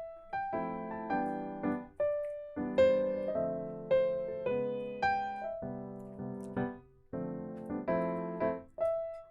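Background piano music: soft chords and notes struck one after another, each ringing and dying away.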